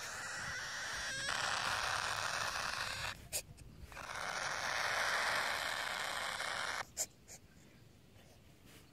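Baby cockatiels making a raspy, hissing noise in two long stretches of a few seconds each, with a sharp click between them and another as the noise stops.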